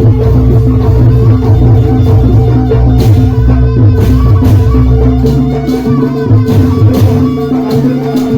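Live East Javanese jaranan music from a gamelan-style ensemble with drums, playing loudly with a steady beat. Held tones sound over the percussion, and a deep low bass drops out about six seconds in.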